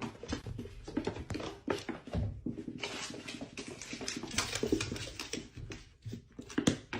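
Irregular light taps and rustling from a pet moving about, with faint animal sounds.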